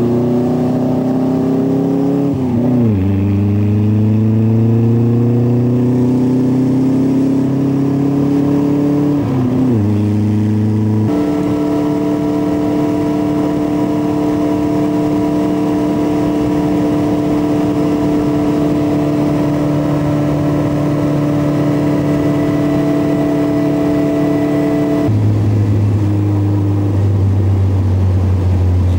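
Caterham 7's engine pulling up through the gears, its pitch climbing and dropping sharply at two gear changes. It then runs at steady revs at cruising speed, with wind and road noise.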